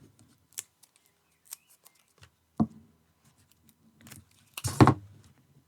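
Hands working card and tape: a few light clicks and taps, a sharper knock about two and a half seconds in, then a louder short rasp near the end.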